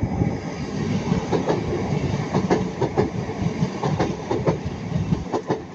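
Passenger train passing close by, its wheels clattering over the rail joints with a low rumble; the clatter drops away near the end.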